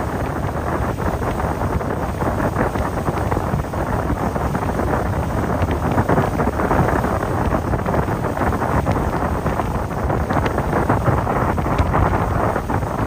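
Wind buffeting the microphone aboard a motorboat under way, a steady loud rush with crackling gusts over the noise of the boat moving through the water.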